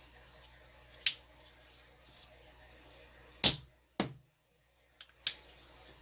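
Four sharp taps and clacks of paint-pouring supplies being handled on a table, the loudest about three and a half seconds in.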